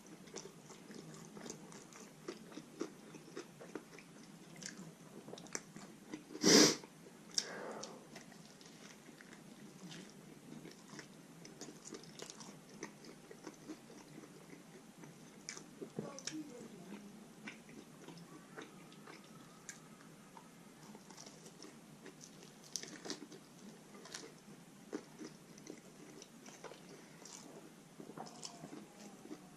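Close-up eating sounds of a person biting and chewing a loaded taco: small crunches and wet mouth clicks, with one much louder burst about six and a half seconds in.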